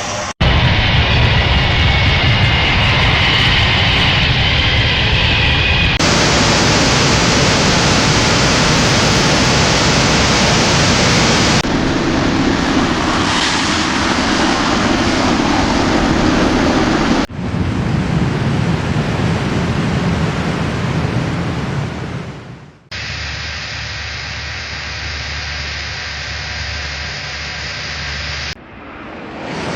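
Jet airliner engines: a loud, steady rush of noise. The sound changes abruptly every five or six seconds, with a brief drop out near the start and a dip around 23 seconds in.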